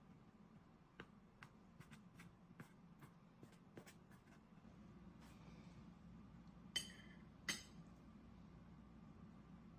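Quiet taps and clicks of cutlery on a dish, with two louder ringing clinks about seven seconds in, over a low steady hum.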